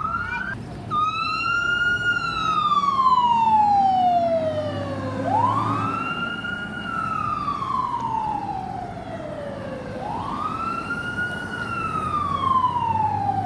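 Fire siren wailing in slow cycles: each one rises quickly in pitch and then slides slowly down over about four seconds, three times over.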